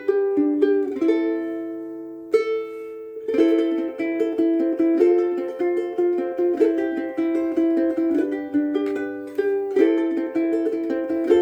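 Kiwaya KKS2 soprano ukulele in Kauri pine, strung with Loprinzi fluorocarbon strings, played fingerstyle as a melody with chords. About a second in, a chord is left to ring and fade, then playing picks up again and carries on at a steady pace.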